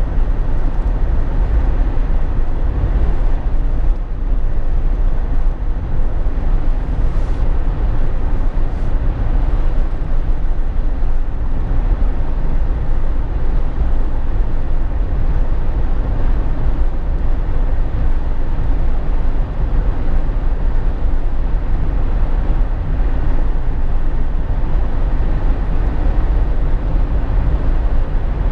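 Steady cabin noise inside a moving Jeep Wrangler JK: a low rumble of engine, tyres and wind, unbroken and even throughout.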